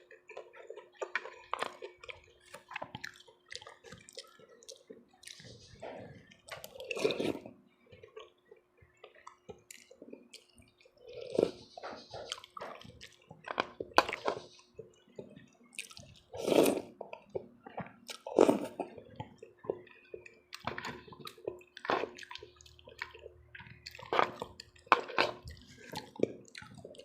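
Kitchen work with water: irregular knocks, clinks and splashes, as food or utensils are handled in water, over a faint steady hum.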